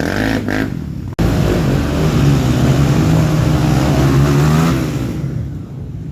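Off-road motorcycle engines revving. The sound cuts off abruptly about a second in; then one engine runs hard and steady for about three and a half seconds before fading away.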